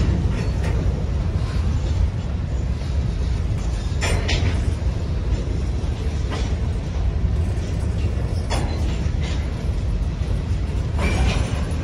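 Empty covered hopper cars of a CSX freight train rolling past: a steady low rumble of wheels on rail, broken by a sharp clank every two to four seconds.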